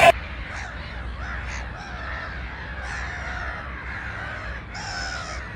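A flock of crows cawing, many calls overlapping, with louder, harsher caws near the end.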